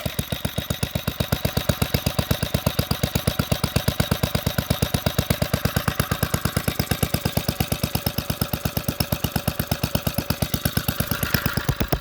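Briggs & Stratton single-cylinder engine running steadily on its first startup after the head was pulled and the engine cleaned out, each firing pulse distinct and evenly spaced.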